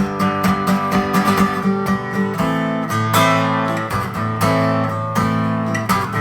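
Acoustic guitar strummed in a steady rhythm, an instrumental passage without singing. The chords change about two and a half seconds in.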